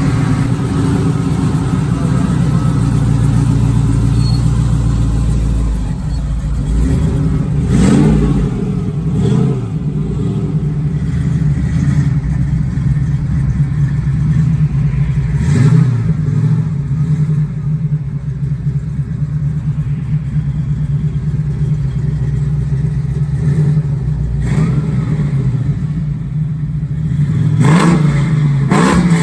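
A supercharged LS1 V8 idling through a custom dual exhaust with an H-pipe and Flowmaster 50 Series Delta Flow mufflers. The engine is blipped in a handful of short revs that rise and fall quickly, two of them close together near the end.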